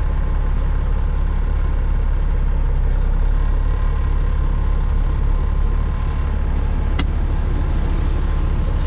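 Caterpillar 3406E inline-six diesel of a Freightliner FLD120 running steadily at low speed, heard from inside the cab as an even, deep rumble. One sharp click sounds about seven seconds in.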